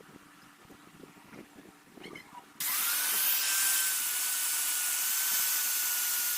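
Faint scattered taps, then about two and a half seconds in an electric grinder starts abruptly and runs steadily, with a high, steady whine over a loud hiss as it grinds the car-leaf-spring steel of a dao blade.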